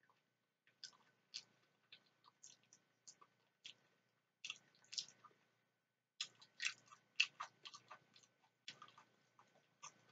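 Quiet, close-up chewing of a mouthful of creamy macaroni salad: soft, wet mouth clicks and smacks, with a brief lull about five seconds in.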